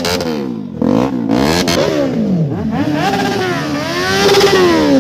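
Motor vehicle engines, motorcycles among them, rising and falling in pitch as they rev and pass, with several overlapping about a second in and one climbing to a peak near the end before dropping.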